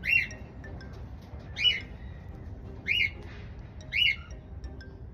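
A bird squawking: four short, sharp calls, each rising and falling in pitch, spaced about a second apart.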